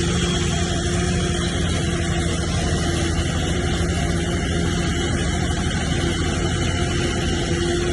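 Heavy diesel engine of earthmoving machinery running steadily, with a deep hum that holds one pitch throughout.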